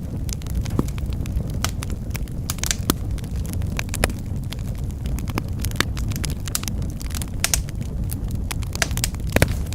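Wood fire burning in a fireplace: a steady low rumble with irregular sharp crackles and pops, a couple of louder pops near the end.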